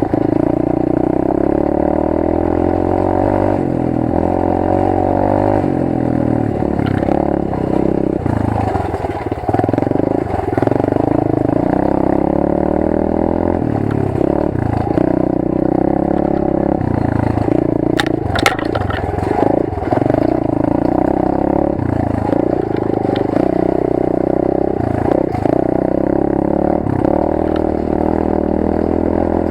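Rampage 125 cc pit bike's single-cylinder four-stroke engine running under the rider, heard from a camera on board, with the revs rising and falling as the throttle is worked. The revs drop about a third of the way through, and a couple of sharp knocks from the bike's chassis come a little past halfway.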